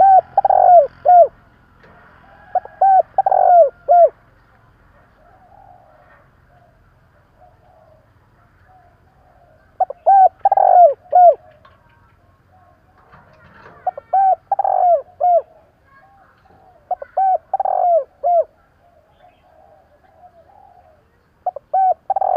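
Spotted dove cooing: six phrases of several quick, rounded coo notes each, repeated every few seconds with quiet gaps between, the last phrase starting near the end.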